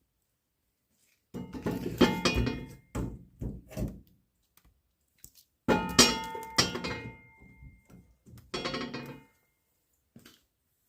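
Clattering knocks with a metallic ringing after the hits, in three clusters: the open wood stove being tended.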